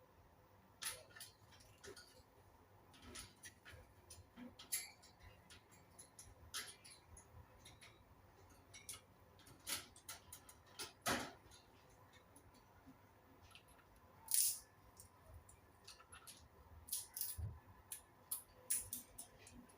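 Faint, irregular short clicks and ticks scattered throughout, the loudest about two-thirds of the way in, with no calls or song.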